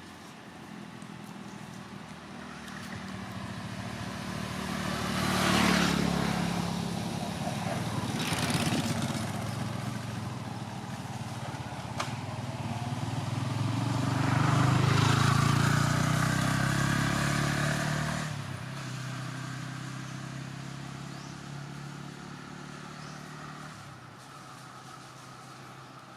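Motor vehicles passing on a road: engine noise that swells and fades, loudest about six seconds in and again around fifteen seconds, then dying away.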